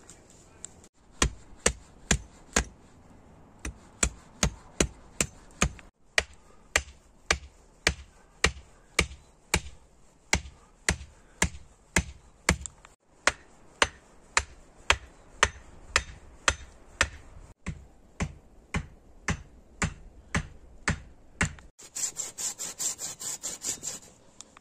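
Steady hammering, about two blows a second, with a few brief breaks; near the end it gives way to a quicker, denser run of small strokes.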